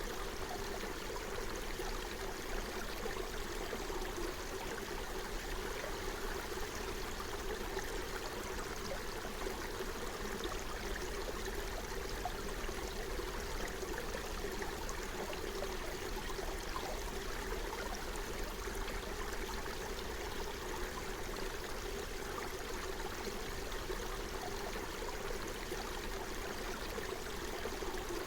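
Forest stream running over its bed: a steady, even rush of flowing water.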